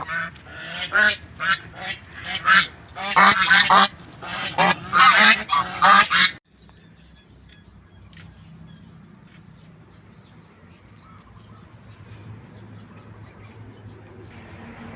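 Domestic geese honking loudly and repeatedly, in rapid overlapping calls. They stop abruptly about six seconds in, leaving a faint background with scattered small ticks.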